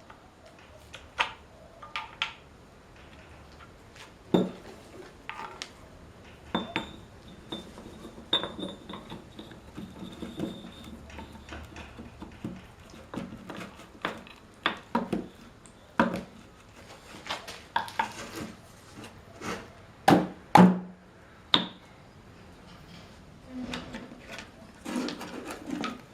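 Metal tools and engine parts clinking and knocking irregularly as they are handled, with the loudest knocks about twenty seconds in and a brief faint ringing about eight seconds in.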